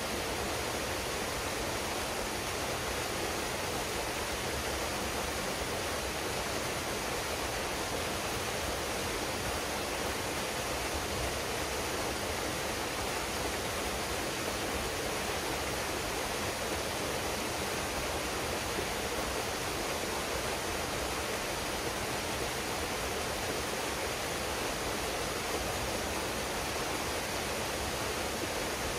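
Waterfall pouring into a pool: a steady, even rush of falling water with no changes.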